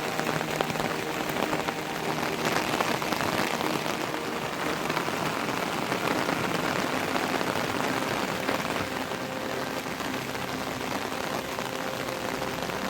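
Heavy monsoon rain falling steadily, a dense patter of drops hitting surfaces.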